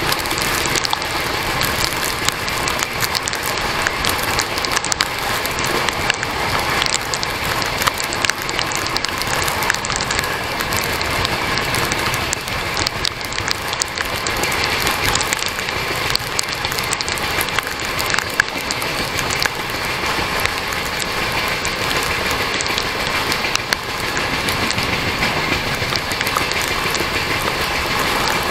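Steady rush of a moving passenger train heard from the side of a coach, mixed with wind and heavy rain, with frequent crackles through it.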